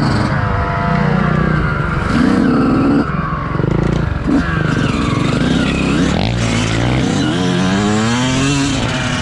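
Motocross bike engine revving hard and easing off over and over, its pitch climbing and dropping with the throttle and gear changes.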